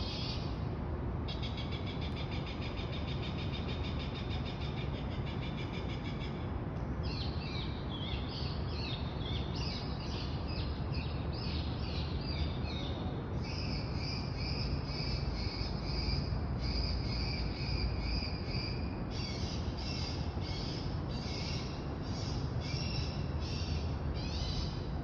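A large number of birds chirping all at once in a dense, continuous chatter of rapid, pulsing calls, over a steady low rumble of city noise.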